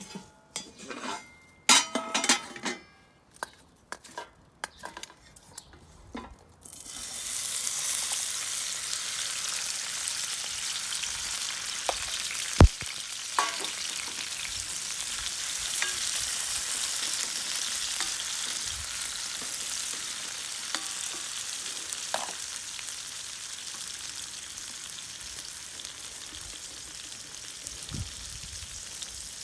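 A few metal clinks and knocks, then food hits a hot frying pan about seven seconds in and sizzles steadily for the rest of the time, easing off slightly toward the end, with a few sharp clicks over the frying.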